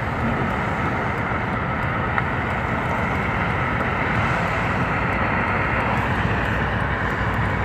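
Steady road and engine noise of a car driving slowly along a street, heard from inside the car.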